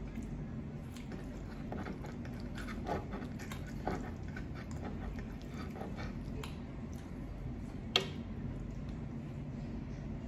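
Close-up chewing and mouth sounds of someone eating, with scattered small wet clicks and smacks over a steady low hum, and one sharp click about eight seconds in.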